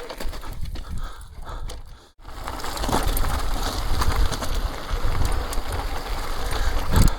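E-mountain bike riding down a rough trail: tyres crunching over gravel and rock, with the bike rattling and clicking. The sound drops out for an instant about two seconds in and is louder after that.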